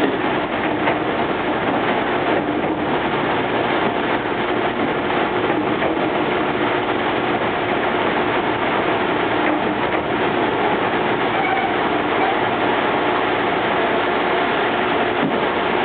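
Meitetsu 5300 series electric train (set 5302F) running: a steady rumble of traction motors and wheels on the rails, with faint steady tones over it.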